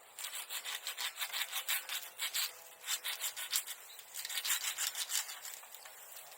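Hand saw cutting through wood in rapid back-and-forth strokes, stopping about five seconds in.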